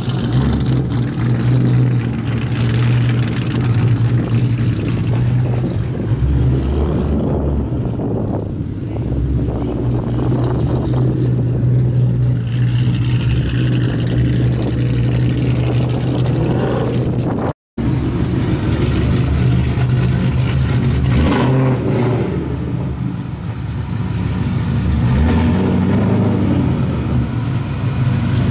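Mustang V8 engine running steadily under light load, with a strong constant low drone. Partway through, the sound cuts out for an instant and picks up again.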